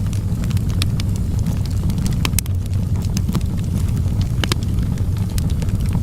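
Wood fire burning in a fireplace: a steady low rumble of the flames with scattered sharp crackles and pops, two of them louder, a little after two seconds and about four and a half seconds in.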